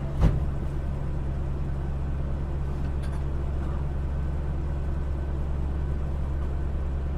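Cabin sound of the Yui Rail monorail running along its elevated track: a steady low hum with even running noise. A single sharp thump comes just after the start.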